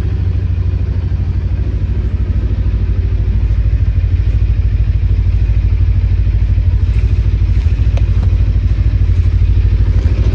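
Cyclone RX401 motorcycle engine running steadily at an even pace with a rapid low exhaust beat, no revving.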